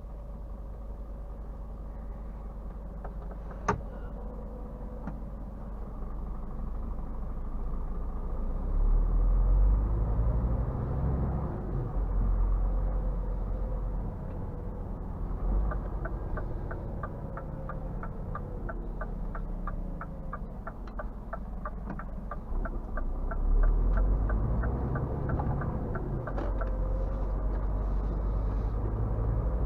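Scania R450 truck's diesel engine heard from inside the cab as a low rumble, louder twice as it pulls. A single sharp click comes about four seconds in. For about ten seconds in the middle there is an even ticking, about two and a half ticks a second, from the turn indicator.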